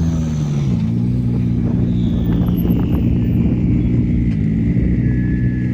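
Subaru Impreza GC8 rally car's naturally aspirated flat-four engine running steadily under light load; its note drops about a second in, then holds. A faint high whine slides slowly down in pitch over several seconds.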